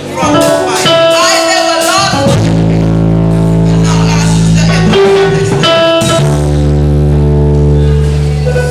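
Live band music with guitar, bass and held chords, with a singing voice in the first couple of seconds.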